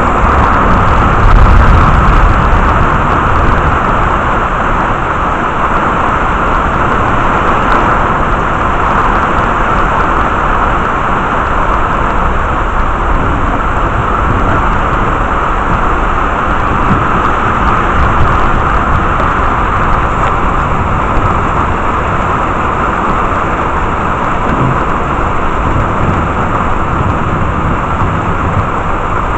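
Heavy rain pouring steadily during a thunderstorm, with a brief low rumble swelling about a second in.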